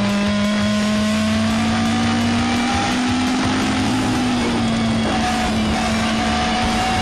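Toyota AE86 Sprinter Trueno race car's twin-cam four-cylinder engine heard from inside the cabin, pulling hard with its pitch climbing slowly through a gear, then dipping slightly about four and a half seconds in.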